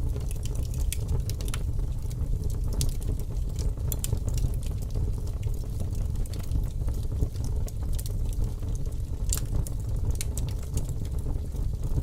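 Fire crackling: a steady low rumble with irregular sharp pops and crackles, one louder pop about nine seconds in.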